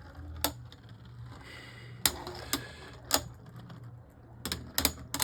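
Two Beyblade Burst tops battling in a stadium, colliding with about seven sharp clacks at irregular intervals.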